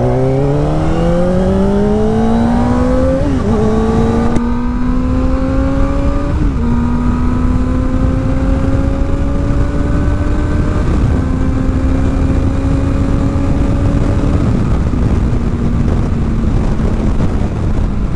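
Kawasaki ZX-4R's inline four-cylinder engine through a new aftermarket exhaust, accelerating up through the gears. The note climbs in each gear and drops at each of about four upshifts, the climbs getting slower in the higher gears, over steady wind noise.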